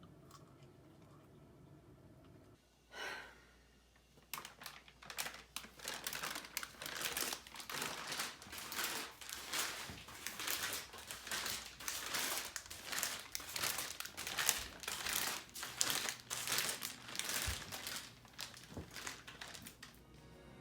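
Faint room tone, with one short rustle about three seconds in, then a long run of rapid, continuous crinkling and crackling, as of a plastic food wrapper or bag being handled, easing off near the end.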